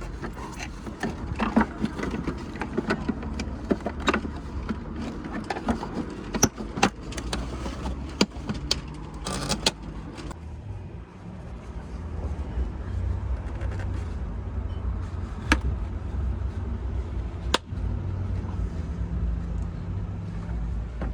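Clicks and knocks of hands working on a car's rear lamp. They come thick for about ten seconds, with a short scraping burst near the middle, then only a few single sharp clicks over a low steady hum.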